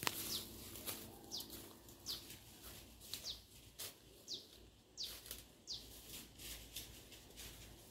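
A bird calling faintly: short, high chirps that fall in pitch, repeated roughly once a second, with a few faint clicks between them.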